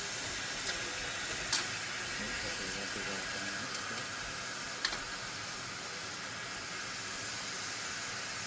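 Steam locomotive hissing steadily, with a few sharp clicks.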